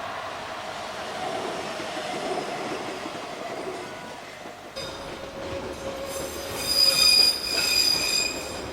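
Electric train running on rails, then a loud, high-pitched squeal of steel wheels on the track, loudest about seven seconds in, after an abrupt change in the sound about five seconds in.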